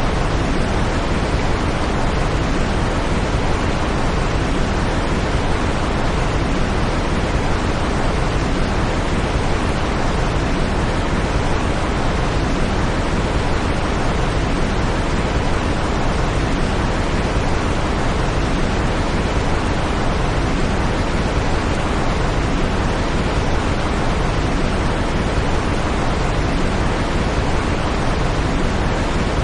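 Steady, unchanging smoothed white noise from a sleep-aid track: an even rushing hiss, fuller at the low end than a bright white hiss.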